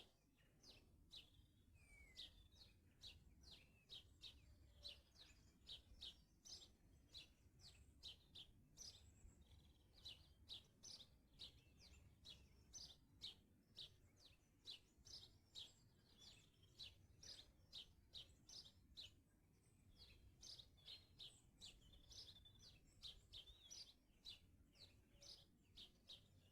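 Garden songbirds chirping faintly: a quick, continuous run of short high-pitched chirps, two or three a second, over a low background rumble.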